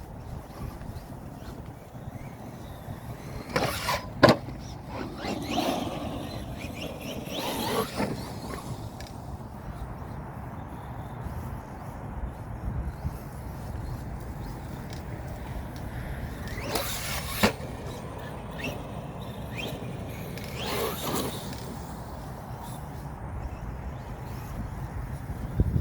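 Redcat Volcano EPX Pro RC monster truck's brushless electric motor whining up and down in bursts as it is driven hard, with two sharp knocks, about four and seventeen seconds in.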